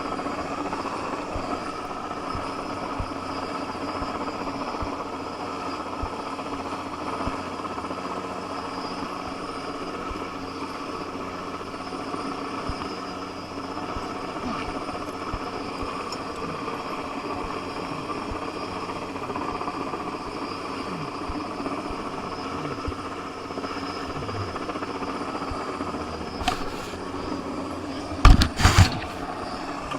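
Helicopter running steadily overhead, its rotor and engine an even drone while it holds a crane load. Two or three sharp knocks come near the end.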